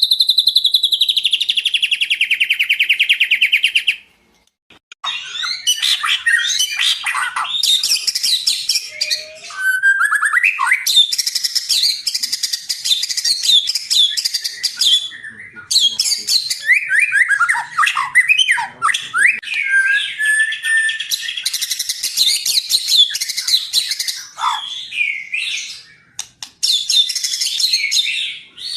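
White-rumped shama in full song. It opens with a loud, fast trill falling in pitch for about four seconds, then after a brief pause delivers a long run of rapid, varied phrases of whistles and chattering notes with only short breaks.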